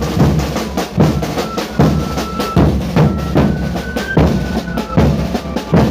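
Drum-led music: a bass drum beats about once a second with snare and other drums, over a few short held high notes.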